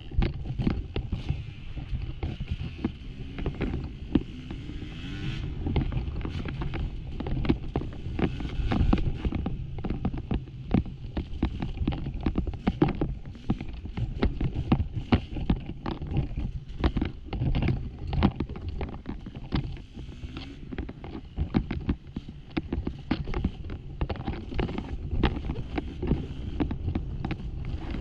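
Dirt bike engine revving up and down as it is ridden on rough trail, with a constant clatter of clicks and knocks from the bike over loose, rocky ground.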